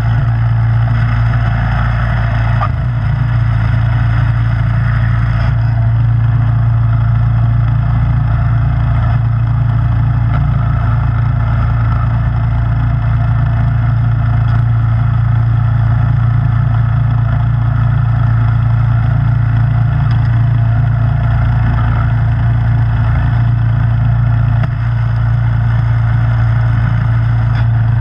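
Snowblower engine running steadily: a loud, even drone.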